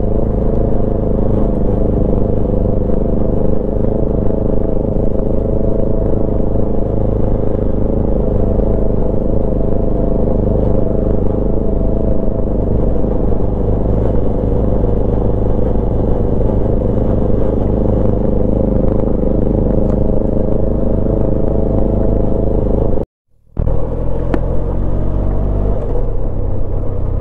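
Benelli TRK502's parallel-twin engine running steadily as the motorcycle is ridden over a gravel track, with a low rumble underneath. The sound cuts out for a moment near the end, then the engine note carries on at a slightly different pitch.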